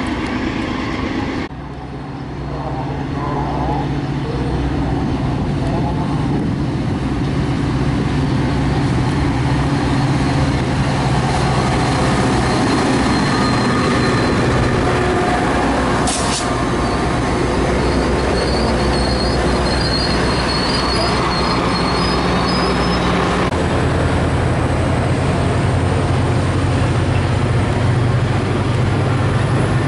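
A diesel-hauled train passing: a locomotive engine running steadily under the noise of wheels on the rails. The sound changes abruptly twice, about a second and a half in and again about two-thirds of the way through.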